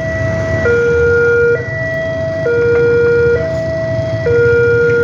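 Railway level-crossing warning alarm sounding a loud two-tone signal, switching between a higher and a lower tone about every second, which warns that a train is approaching. A low rumble of traffic runs underneath.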